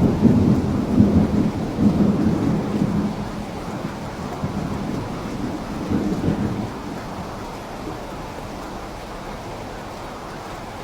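Rain falling steadily while thunder rumbles low and heavy through the first few seconds and again about six seconds in, then dies away, leaving the even hiss of the rain.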